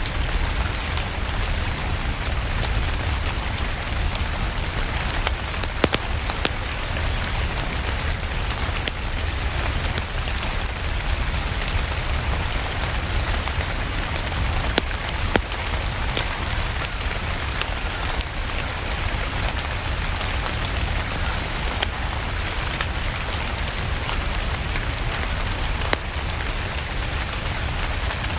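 Steady rain: an even hiss with a deep rumble underneath and scattered sharp clicks throughout.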